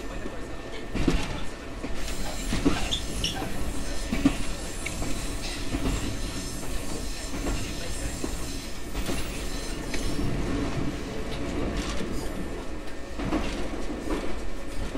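Running sound of a JR West 123 series single-car electric train under way: a steady rumble of wheels on rail, broken by irregular clacks as the wheels cross rail joints.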